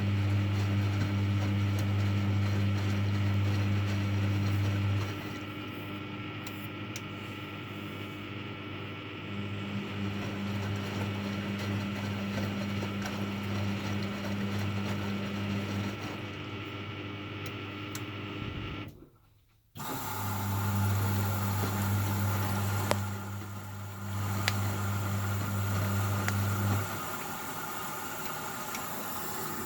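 Hoover Baby washing machine running, its motor humming in stretches of several seconds that cut in and out, with a fainter mechanical churn between. The sound drops out briefly about two-thirds of the way through.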